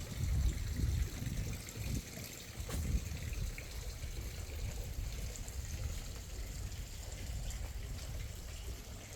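Water running steadily, with a low rumble underneath that is heaviest in the first two seconds, and a single short knock about three seconds in.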